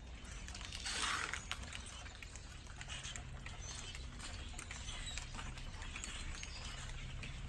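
A large flock of birds calling with scattered short chirps, with a brief rushing noise about a second in over a low steady hum.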